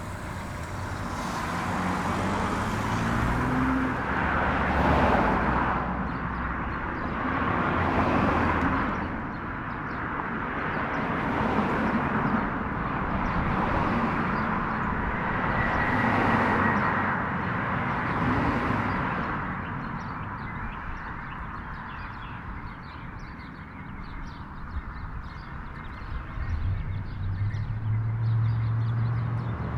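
Road vehicle noise: a steady low hum with a wash of tyre and road noise that swells and fades several times, then quietens in the last third.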